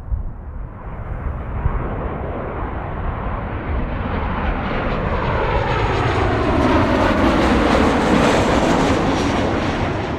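Jet airliner passing close by. Its engine noise builds up and peaks about eight seconds in, and its whining tones slide down in pitch as it goes past.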